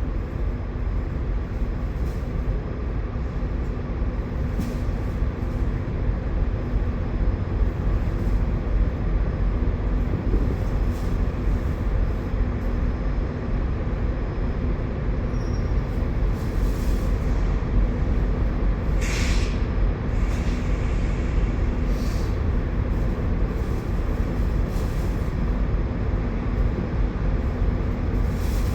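Steady low rumble of idling diesel engines, with a few short scrapes and knocks over it, the sharpest about two-thirds of the way through.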